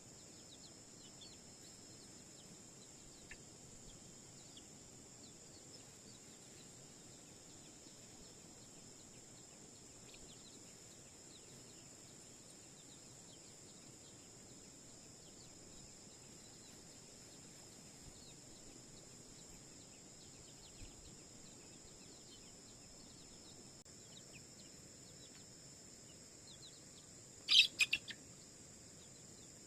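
Countryside ambience of faint scattered bird chirps over a steady high-pitched insect drone, with a short loud burst of a few quick notes near the end.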